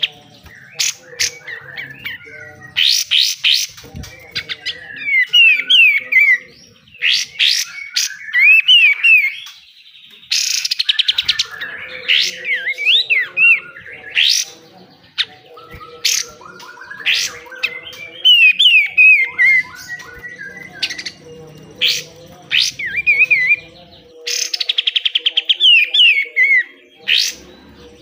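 Kapas tembak (katem) songbird singing a loud, rough 'besetan' song: sharp, very fast rattling bursts alternating with quick looping, falling whistled notes, repeated every second or two.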